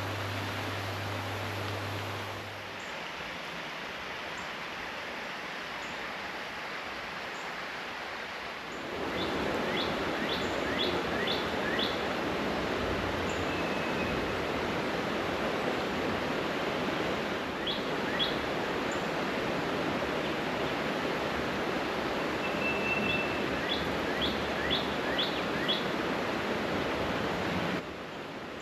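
Steady rush of flowing river water, louder from about nine seconds in, with a bird singing short, quick runs of high notes three times. A low hum fades out about two seconds in.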